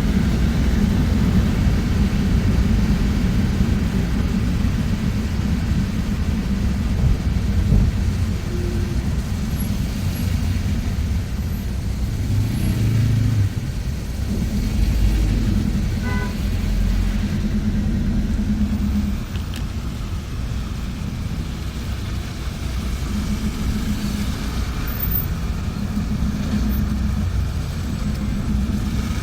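Low engine and road rumble from inside a moving bus in traffic, rising and falling as it drives.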